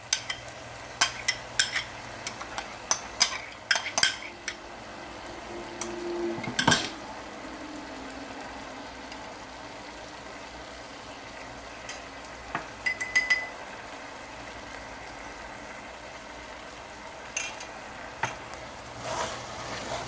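Chicken sizzling in a hot pot with yogurt and spices while a spoon stirs it, clinking and scraping against the pot now and then, most often in the first few seconds and near the end.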